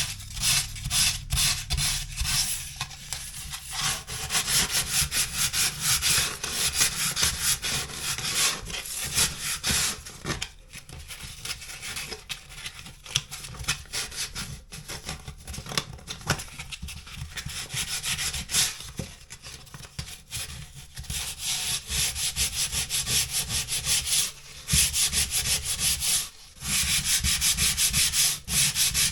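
Sandpaper, a used 120-grit sanding disc, rubbing over dried spackle on a drywall patch in quick, uneven back-and-forth strokes, with a couple of short pauses. It is a light sanding to smooth the patch for primer.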